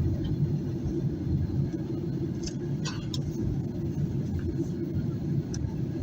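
Steady low cabin rumble inside a Boeing 737-800 in flight, from its CFM56 engines and the airflow over the fuselage. A few faint clicks sound near the middle.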